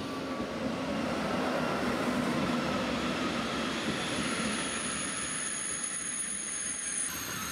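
Thalys high-speed train running past a station platform: a steady rumble of wheels on rail that swells over the first second. A thin high squeal joins in about halfway through.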